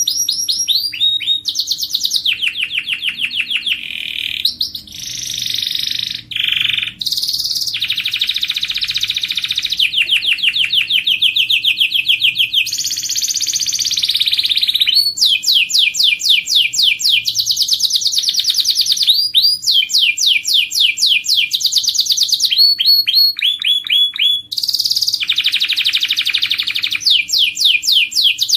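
Domestic canary singing a long, nearly unbroken song of rapid trills, switching to a new repeated phrase every second or two.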